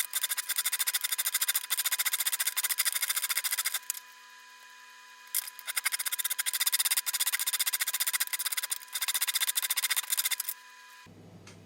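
Rapid rasping, scraping strokes of a tool working a hard surface, in two runs with a pause of about a second and a half between them, stopping shortly before the end.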